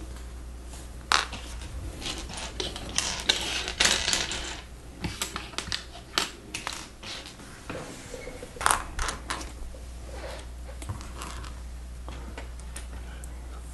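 Plastic Lego Technic pieces clicking and clattering as they are picked through and fitted together, with a few sharp clicks and a short stretch of rattling, over a steady low hum.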